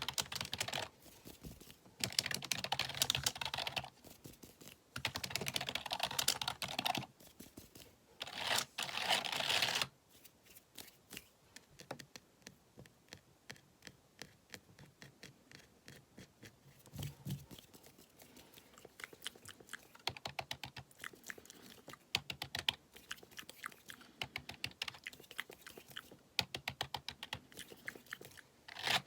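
Typing on a computer keyboard: fast runs of key clicks in four bursts over the first ten seconds, then slower, scattered keystrokes.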